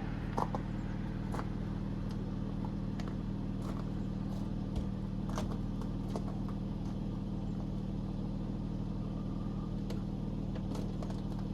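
A vehicle engine idling steadily, with scattered light clicks and taps over it.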